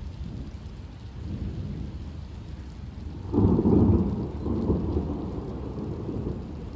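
Thunder rumbling over steady rain: a low roll swells about a second in, then a loud, sudden clap about three and a half seconds in rolls on and slowly fades.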